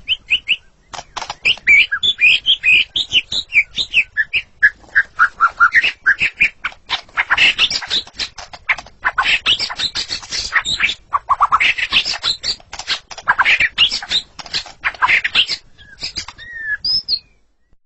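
White-rumped shama (murai batu) singing fast and continuously: varied whistled phrases packed with dense clicking and rattling notes. The song cuts off abruptly near the end.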